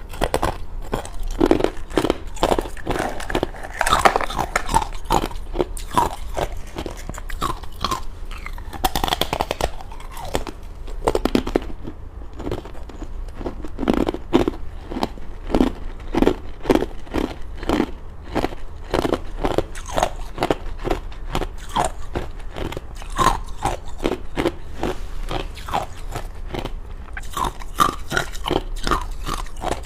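Close-miked crunching and chewing of thin, hollow frozen matcha ice: rapid cracks and crackles as the ice is bitten and chewed, repeated many times a second.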